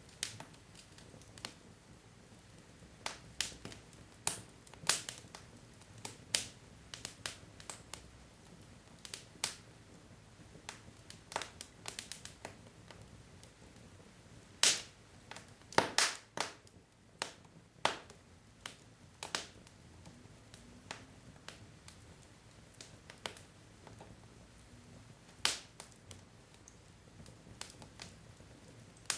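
Wood fire crackling: burning logs give irregular sharp pops and snaps over a faint low hiss, with a few louder pops now and then.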